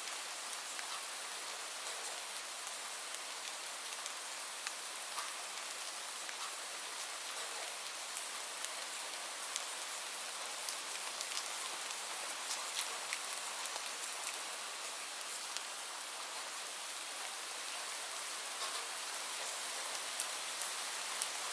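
Steady rain falling, an even hiss with many scattered sharp drop ticks on a hard surface.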